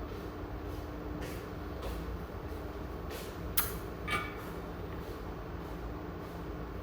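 Steady low hum with a few sharp clicks, the two loudest about three and a half and four seconds in.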